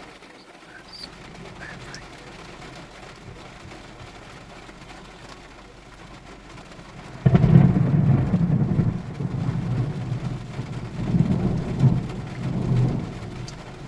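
Heavy rain falling steadily, heard from inside a car. About halfway through, a close lightning strike's thunder breaks suddenly into a loud low boom and rumbles on for about six seconds, swelling several times.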